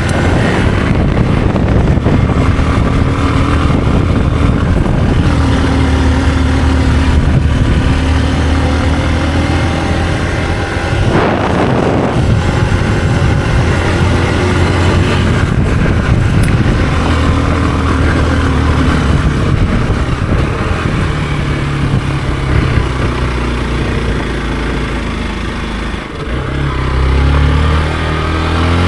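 Hero XPulse 200 4V's single-cylinder engine running while the motorcycle is ridden, its pitch moving up and down with throttle and gear changes over a steady rush of noise. Near the end the engine drops back briefly, then picks up again.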